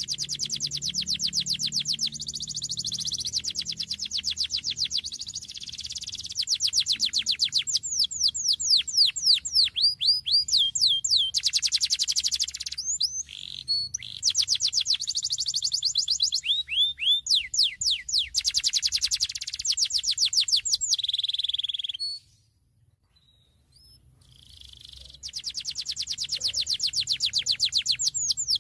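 Domestic canary singing a long song of fast, high-pitched trills and rolls, the phrases switching from one rapid repeated note to another. It breaks off for about two seconds some three quarters of the way through, then starts again.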